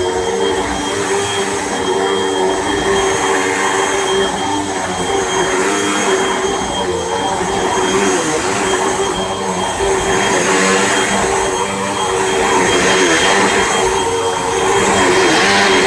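Hoover WindTunnel Rewind Bagless upright vacuum cleaner running steadily while vacuuming a rug: a motor whine over a rush of air, its pitch wavering slightly and its level swelling and dipping a little.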